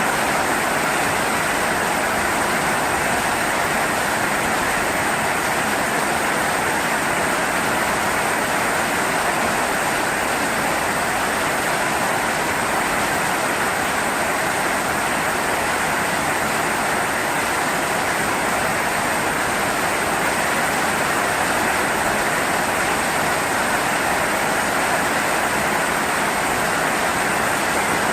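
Heavy rain falling: a steady, even hiss with no thunderclaps.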